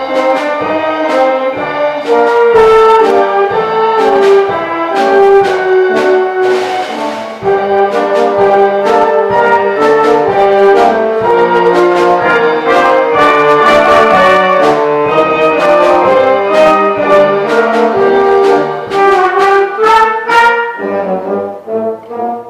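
Youth wind band playing, brass carrying the melody over regular percussion strokes; the texture thins shortly before the end as the passage closes on a loud struck chord.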